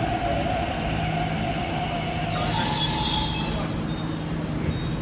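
MTR East Rail Line electric train running on the track, a steady rumble of wheels on rail with a low hum, and a brief high-pitched wheel squeal about two and a half seconds in.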